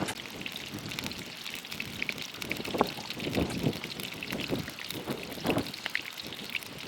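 Rain falling, with many scattered, irregular drop taps over a steady hiss.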